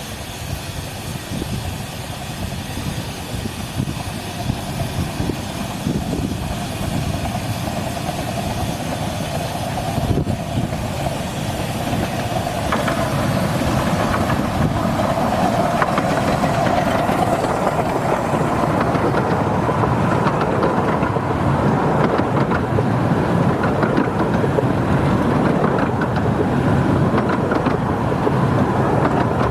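Romney, Hythe and Dymchurch Railway train running along the 15-inch-gauge line, with a steady rumble of wheels on rails that gradually gets louder.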